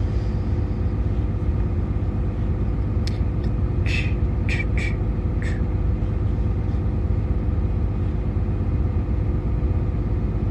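Steady low rumble and hum inside a truck's cabin with the engine running, broken by a few short sharp clicks about three to five seconds in.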